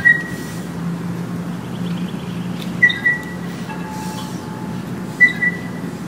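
Outdoor ambience: a bird repeating a short high two-note call about every two and a half seconds, over a steady low hum. A faint wind-chime tone rings about four seconds in.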